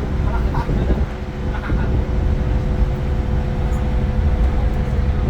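Iveco Crossway LE 12 city bus under way: its Cursor 9 inline-six diesel and running gear make a steady low rumble, with a steady whine throughout.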